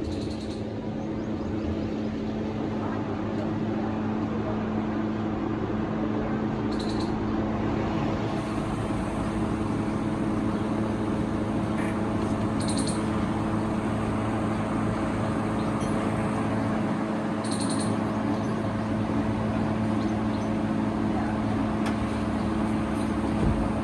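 Car engine running steadily, a constant hum, with a few short high chirps about 7, 13 and 17 seconds in.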